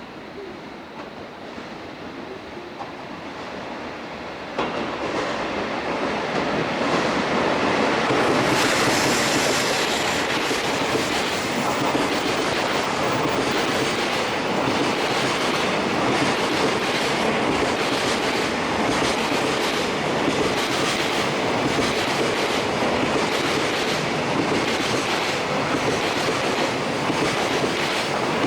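Freight train hauled by an ED76 electric locomotive passing close by, its wheels clattering rhythmically over the rail joints. It grows louder over the first several seconds, jumps up about four and a half seconds in, then holds a steady, loud clatter as the wagons roll past.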